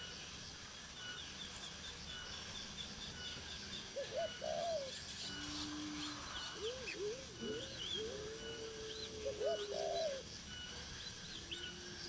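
Birds calling: low calls that rise and fall in pitch, clustered about four seconds in and again from six to ten seconds, over short high chirps repeating throughout.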